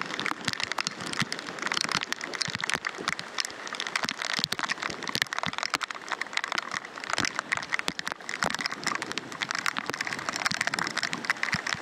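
Heavy downpour: rain falling hard, with a dense stream of sharp ticks from drops striking the camera's microphone.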